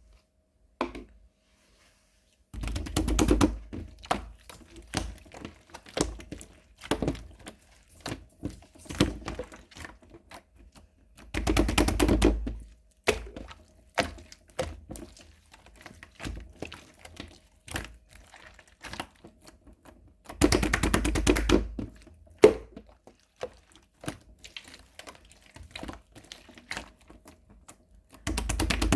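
Runny slime being played with by hand: rapid trains of small clicks and pops, in four louder spells a second or two long, with scattered single clicks between.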